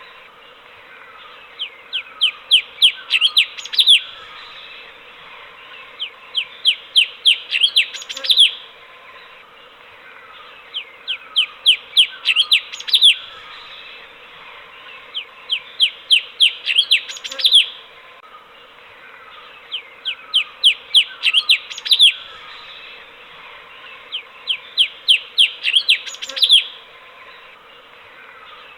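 Cucak cungkok, a bulbul, singing. It repeats the same phrase about six times: a quick run of sharp, high notes that speeds up and ends on a louder note, with a pause of about two seconds between phrases.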